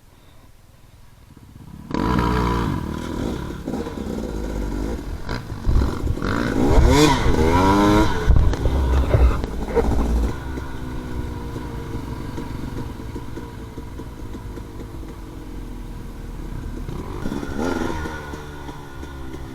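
Dirt bike engine coming in suddenly about two seconds in and revving up and down, loudest in the middle, then running steadier before revving up again near the end.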